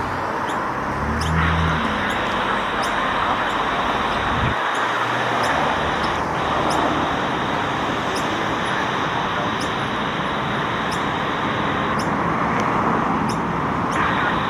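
Boeing 737-8's jet engines passing in a steady, even roar.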